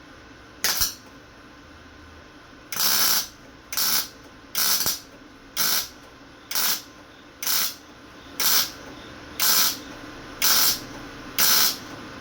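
Lincoln MIG welder laying a series of short stitch welds on sheet-metal body panel: a brief burst of arc crackle, then about ten half-second bursts of crackling, hissing arc at roughly one per second.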